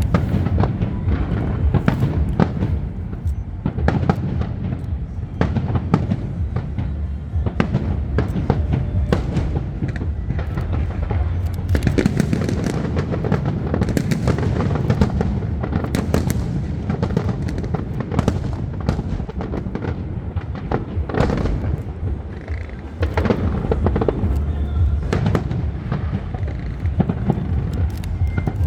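Aerial fireworks display, with many shell bursts and crackles going off in quick succession over a deep continuous rumble of booms.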